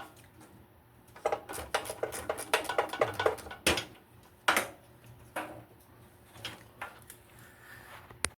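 Metal hand tools clinking and clattering as they are handled and set down: a quick run of clinks, then several single knocks.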